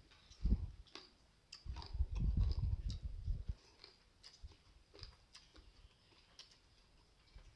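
Someone chewing a mouthful of spicy seafood papaya salad with crisp raw vegetables close to the microphone, with crunches and sharp mouth clicks. The chewing is heaviest from about two to three and a half seconds in, then thins to scattered clicks.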